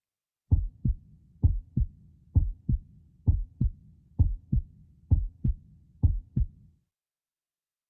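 Heartbeat sound: seven lub-dub double thumps at a steady pace of about one a second, stopping a second before the end.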